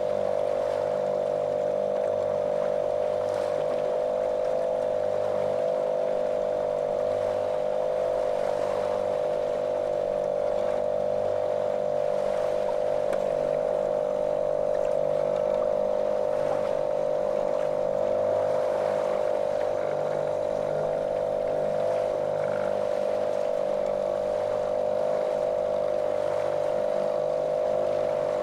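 Small motorboat's motor running at a steady speed: a constant, monotonous drone that holds one pitch throughout.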